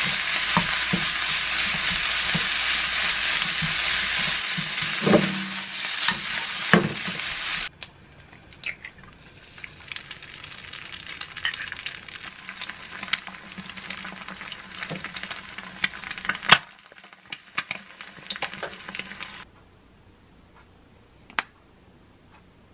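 Pork fried rice sizzling loudly in a frying pan as it is stirred with a wooden spatula, with a few knocks of the spatula on the pan. About eight seconds in it cuts to the much quieter sizzle and scattered pops of an egg frying, which stops well before the end, leaving near quiet with a single tap.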